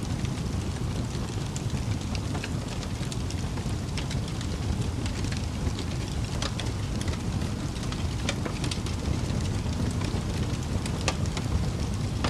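Wood fire in a fireplace crackling: frequent sharp pops and snaps scattered irregularly over a steady low rumble of the burning.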